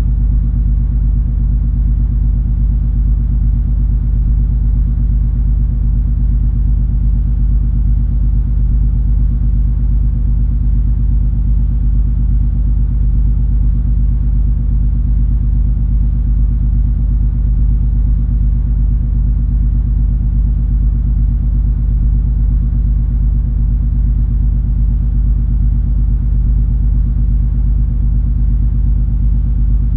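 Steady low rumble and hum of the cruise ferry MS Color Magic under way, its engines droning without change.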